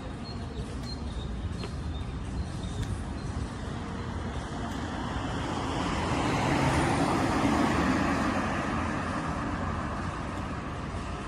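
Steady road traffic noise, swelling to its loudest about seven or eight seconds in, then easing off again.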